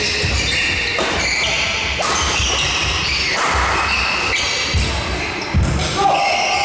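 Men's doubles badminton rally in a sports hall: a string of sharp racket hits on the shuttlecock, about one a second, with shoes scuffing and squeaking on the court floor and the hall's echo.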